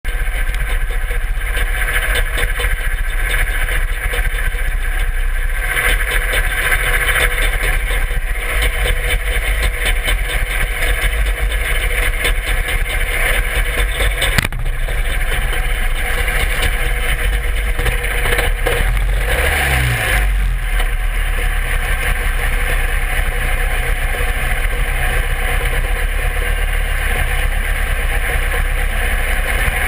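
Open super stock pulling garden tractor's engine running hard at high revs, steady and loud throughout, with a brief dip and recovery in the engine note about two-thirds of the way through.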